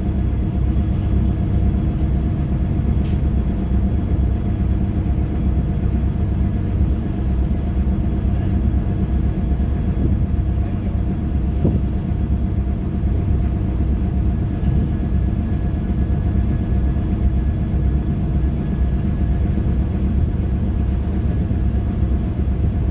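Steady, loud low rumble of a large passenger vehicle's engine and running gear, with a faint constant hum above it.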